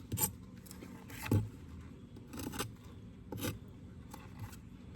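Scraping dead bee parts off a beehive frame: about five short, separate scrapes, the loudest about a second in.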